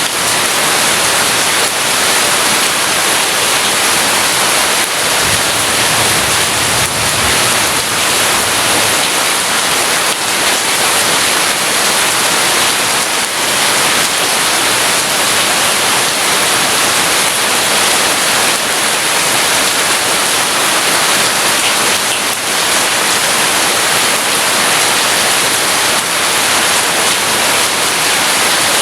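Heavy rain falling steadily, a loud, dense, even hiss with a faint low rumble swelling about five seconds in.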